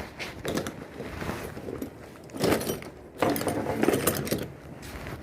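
Irregular metallic clinking and rattling as a sliding shower door's metal frame and the binding wire are worked by hand, with two louder bursts in the second half.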